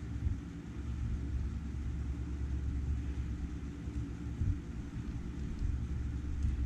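A low, uneven rumble that holds steady throughout.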